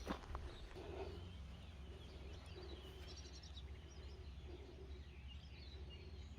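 Faint birds chirping over a steady low outdoor rumble, with a soft low note repeating about twice a second.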